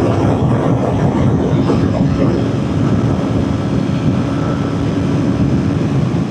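Kawasaki Ninja 400's parallel-twin engine running steadily at highway speed, with loud wind rush over the microphone.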